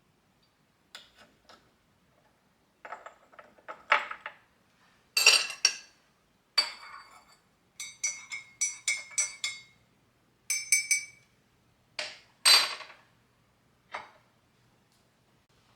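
Dishes and cutlery clinking: ceramic pieces knocked and set down, and a quick run of light clinks in the middle, each ringing briefly.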